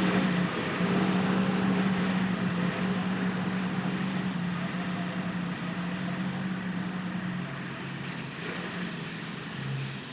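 John Deere 4052R compact tractor's diesel engine running steadily, its hum fading slowly and dropping lower in pitch near the end.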